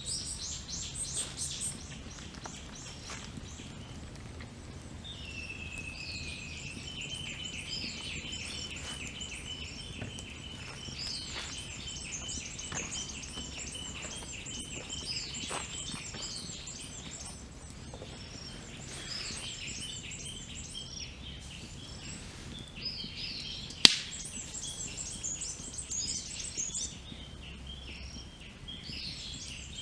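Wild birds singing and calling over each other, one giving a long rapid trill of repeated notes for about ten seconds. Beneath them a campfire crackles faintly, with one loud sharp crack about 24 seconds in.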